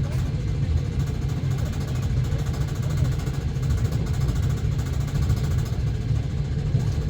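Passenger train running along the track: a steady low rumble of the wheels on the rails and the moving carriage.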